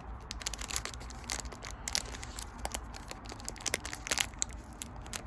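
Pokémon booster pack and cards being handled: the foil wrapper crinkles and the cards click and slide, in irregular crackles.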